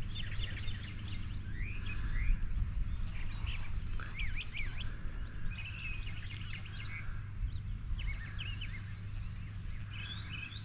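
Birds chirping and singing, a busy run of short rising and falling calls, over a steady low rumble.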